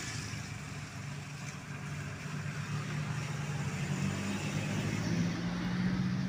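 Truck engine running, its note rising a little and getting louder toward the end as it comes closer, over a steady hiss.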